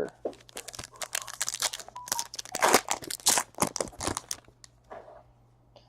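Wrapper of a 2017-18 Panini Select basketball card pack being torn open and crinkled by hand: a run of crackling and crinkling that thins out over the last second or so.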